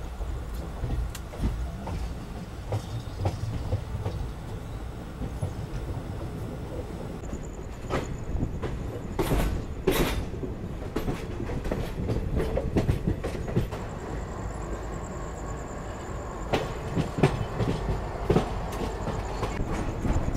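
Express passenger train coaches running along the track, heard from the open side of a moving coach. There is a steady rumble of wheels on rail with irregular clicks and clacks over rail joints and points. A faint high whine comes in briefly about seven seconds in and again from about halfway.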